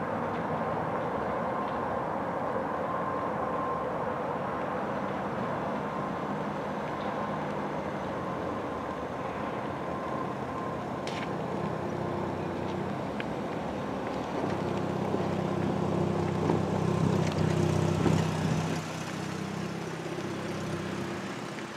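Union Pacific diesel locomotive and loaded coal train running at a distance: a steady rumble with a low engine note. The engine note swells for a few seconds about two-thirds of the way in, then drops off suddenly.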